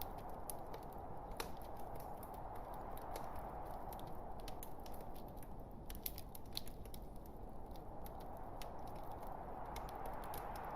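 Log fire burning in a fireplace: a steady rush of flame with frequent small, sharp crackles and pops at irregular intervals.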